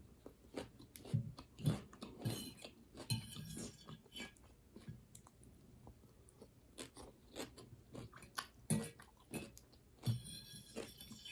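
Close-up crunchy chewing and biting of raw salad greens and vegetables, in irregular quiet bites, with a plastic fork scratching across a plate a couple of times, most plainly near the end.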